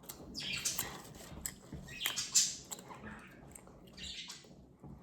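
Plastic toy figures being handled and set down: irregular rustling and scraping with a few light clicks.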